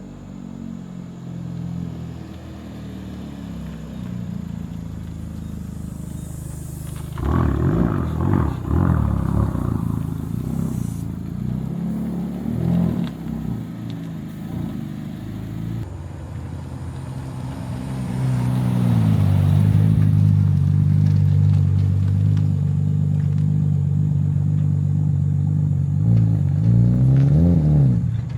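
A car's engine and exhaust while driving. The engine gets louder with revs rising at about seven seconds, settles into a steady cruise from about eighteen seconds, and revs up again near the end.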